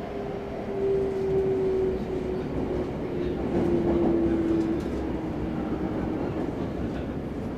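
Electric commuter train heard from inside the passenger car: a low running rumble with a steady motor whine that slowly falls in pitch.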